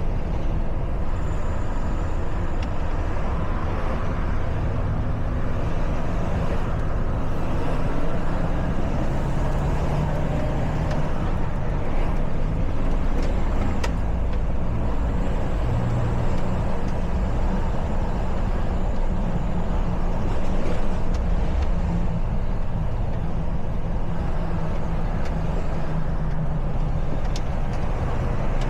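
Heavy truck's diesel engine running while driving, with road noise; the engine note stays steady, rising and falling slightly in pitch.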